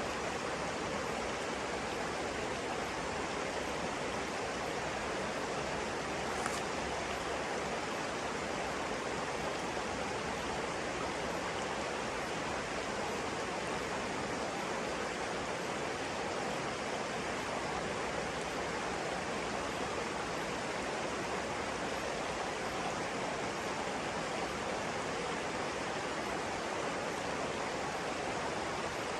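Flowing water in a stream, a steady, even rush with no pauses, and one faint tick about six seconds in.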